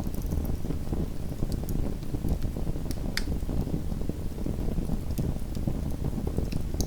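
Small wood fire in a fireplace burning, with a steady low rumble and scattered sharp crackles and pops, one of the sharpest about three seconds in.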